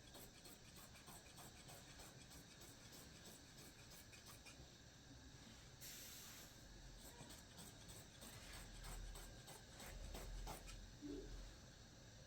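Faint scratching and rubbing with many small clicks, like something being drawn or rubbed across a surface, with a brief hiss about six seconds in.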